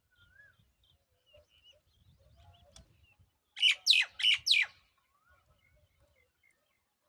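A bird calling: a quick run of four loud, harsh notes, each falling steeply in pitch, a little past halfway, among faint soft chirps.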